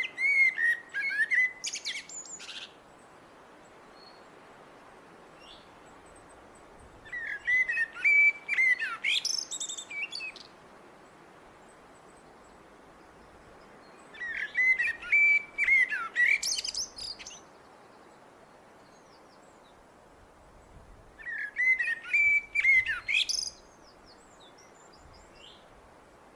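Blackbird singing four separate phrases several seconds apart. Each phrase is a run of whistled notes that ends in higher, thinner twitters.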